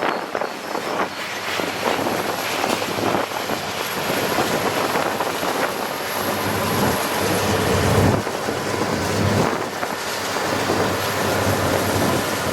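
Freight train's diesel locomotives approaching, a steady rumble with a low engine drone that strengthens from about halfway through.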